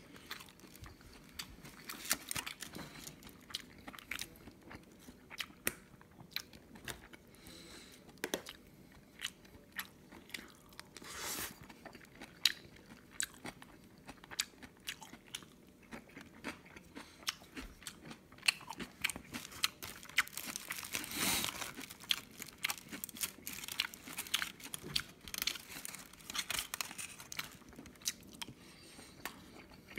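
Close-up chewing and biting sounds from someone eating a rice burger with a spicy filling: many quick wet mouth clicks and smacks, with a couple of longer, louder noisy swells partway through.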